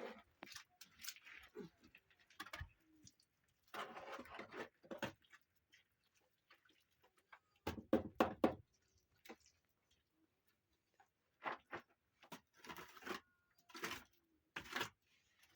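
Irregular knocks, clatters and rustling, as of objects being handled and set down, with a quick cluster of sharp knocks about eight seconds in.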